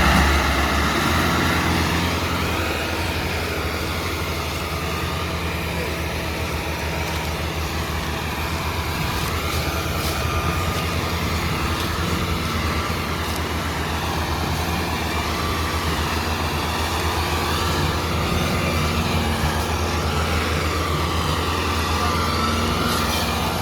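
Massey Ferguson 385 tractor's diesel engine running steadily under load, with a deep continuous drone.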